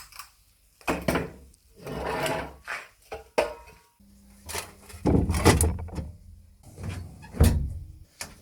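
An irregular series of short knocks, scrapes and rubbing sounds, about eight in all, as of hard parts being handled and set down; the loudest come about five and seven and a half seconds in.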